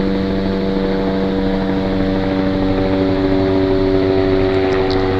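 Sheriff's helicopter circling overhead: a loud, steady drone of rotor and engine with a constant hum.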